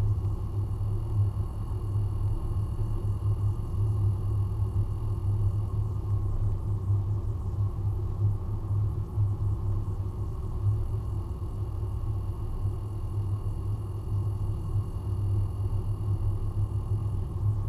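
Steady low rumble of a Nissan Primera GT's 2.0-litre four-cylinder engine and tyres, heard from inside the cabin as the car rolls along at low speed.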